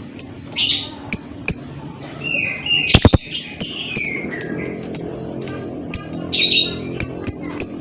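Lovebird calling in a rapid series of sharp high chirps, about five a second, broken in the middle by falling squeals, a brief burst of loud clicks about three seconds in, and a harsher squawk near six and a half seconds.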